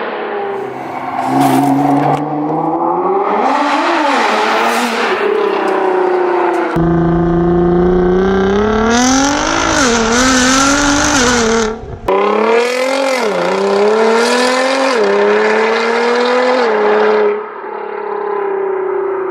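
Nissan GT-R R35's twin-turbo V6, through an Armytrix decat straight-pipe exhaust with its valves open, accelerating hard through the gears. The engine note climbs and then drops sharply at each upshift, several times over. It breaks off abruptly and restarts twice.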